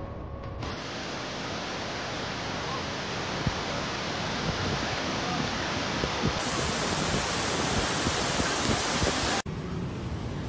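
Steady, loud rushing noise, like a torrent of water or strong wind on the microphone. It cuts off sharply about nine seconds in, and a similar rushing noise resumes at once.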